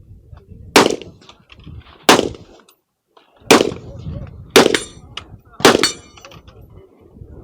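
Five gunshots fired about a second apart, the last two followed by a short high metallic ring like steel being hit.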